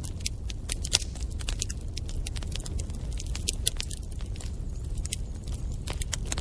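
Wood fire in a fireplace crackling and popping, with irregular sharp snaps over a steady low rumble of the flames; one louder pop about a second in.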